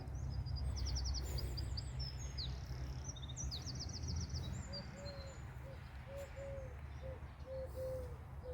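Small birds twittering in quick high trills during the first half, then a pigeon cooing: a run of short, low, rounded notes repeated about once a second. A low steady rumble runs under the first half and fades.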